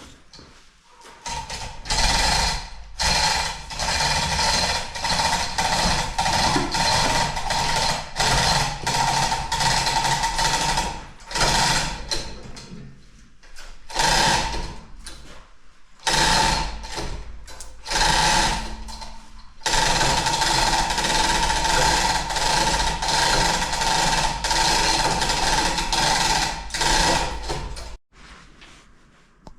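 Hand-held power tool run in repeated bursts of one to several seconds with a steady whine, the longest run lasting about eight seconds near the end.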